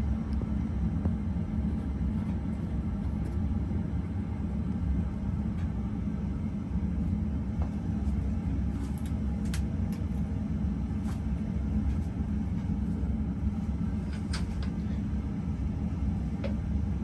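A 52-inch Winco ceiling fan coasting down after being switched off, over a steady low rumble from a household furnace running, with a few faint ticks.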